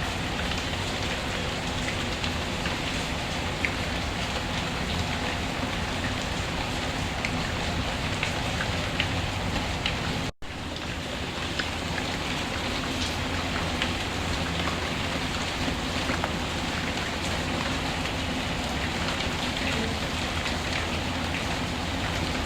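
Steady rain falling, with scattered small ticks of drops. It cuts out completely for a split second about ten seconds in, then resumes.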